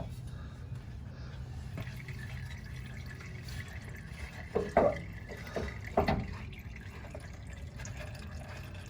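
Diesel fuel draining from the opened fuel filter housing of a Ram 6.7 L turbo diesel, trickling and dripping into a plastic container and catch pan. A few louder drips land just under five seconds in and again about six seconds in.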